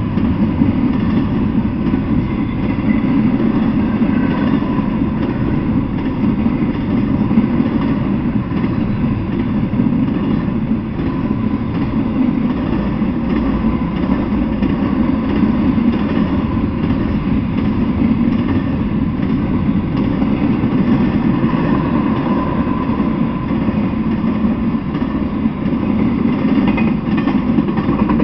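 Intermodal freight train cars, carrying double-stack containers and semi-trailers, rolling past with the steady noise of steel wheels on the rails.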